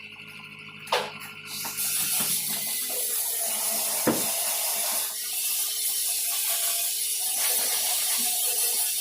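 A click, then from about two seconds in a steady hiss of pressurised spray that runs on unbroken.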